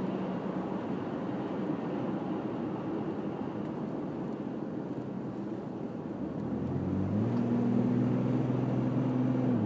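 Interior of a 2001 Jeep Grand Cherokee WJ on the move: tyre and road noise with the engine humming low under part throttle. About six and a half seconds in the engine note grows louder and holds a steady pitch as it pulls.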